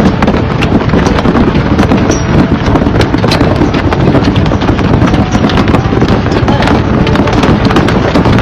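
Avalanche in the Himalayas, a loud continuous rumble with dense crackling throughout.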